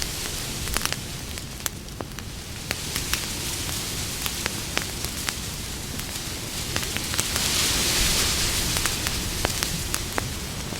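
Campfire burning: wood crackling with irregular sharp pops and snaps over a steady hiss, the hiss swelling for a couple of seconds in the second half.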